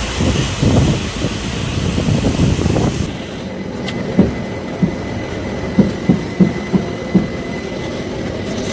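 Passenger train running on the rails: a steady rumble, then a run of sharp knocks as the wheels clack over the rail joints in the second half.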